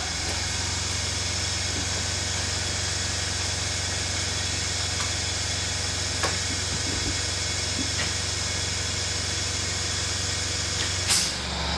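A motor running steadily, giving a low hum with hiss above it, with a few light clicks and a sharper click near the end.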